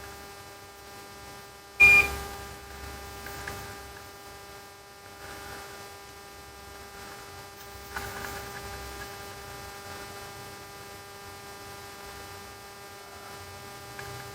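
Steady electrical hum made of several steady pitches, broken by one sharp click with a brief high beep about two seconds in.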